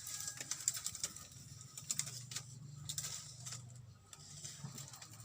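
Irregular light clicks and taps, some close together and some spaced out, over a soft low hum.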